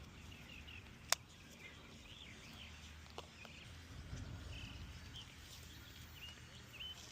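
Small birds chirping in short, scattered calls over a low steady rumble, with a single sharp click about a second in.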